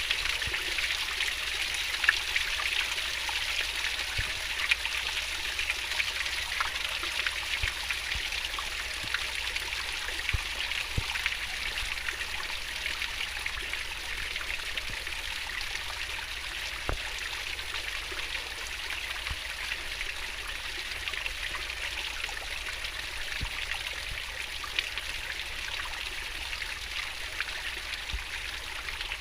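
A fast-flowing stream running and babbling steadily, with a constant rush and small splashes and drips.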